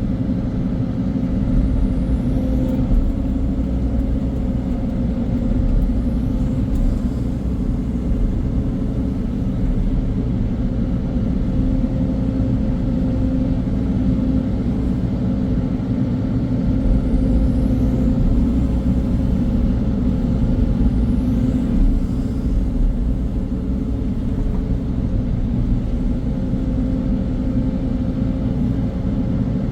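Heavy diesel engine of earthmoving or farm machinery running steadily at a constant speed, a low, even rumble.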